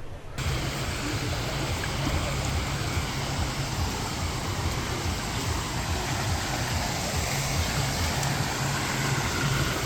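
Steady rushing noise with a choppy low rumble, starting abruptly just after the start.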